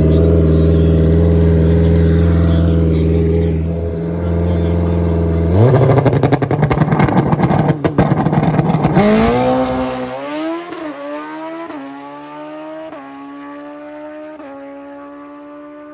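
Drag-racing motorcycle engine held at steady revs, then a harsh crackling stretch about five seconds in. It then accelerates away, its pitch climbing and dropping back at each of four or five upshifts, fading as it goes down the track.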